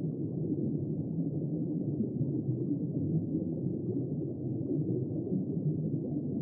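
Steady, muffled underwater rumble: a low wash of noise with nothing bright or high in it and no distinct calls or splashes.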